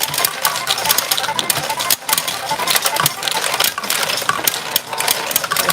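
Retro pachinko machine in play: steel balls clattering through it in a dense, rapid rattle, with short electronic tones from the machine underneath.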